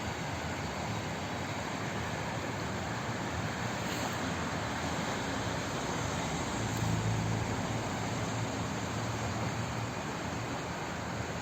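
Flowing water making a steady, even rushing hiss. A low rumble swells in about halfway through and fades a few seconds later.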